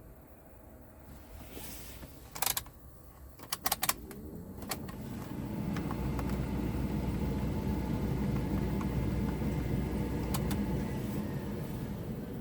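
A few sharp clicks, then a Scania R tractor unit's diesel engine cranks and starts about four to five seconds in and runs steadily.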